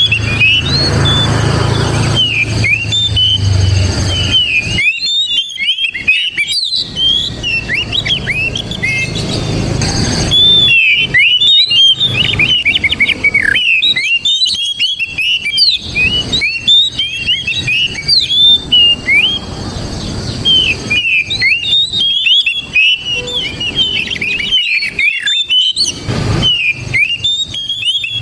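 Oriental magpie-robin (kacer) singing full song: long runs of rapid, varied whistled notes sliding up and down, broken by brief pauses.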